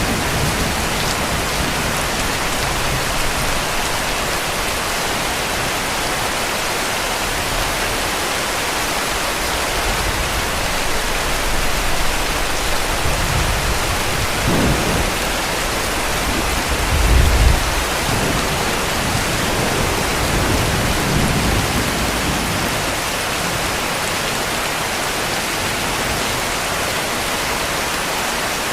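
Heavy rain falling steadily, with distant thunder rumbling low several times, loudest about two-thirds of the way through.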